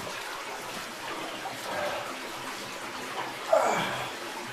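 Steady rush of water running through a cave, with one brief louder sound about three and a half seconds in.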